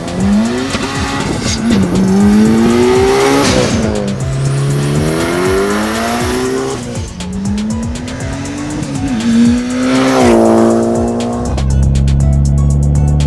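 Mitsubishi Evo IX's turbocharged 2.2-litre four-cylinder through a Tomei full exhaust, accelerating hard through the gears: the engine note climbs and drops back at each shift, about four pulls, then holds steady briefly. Background music takes over near the end.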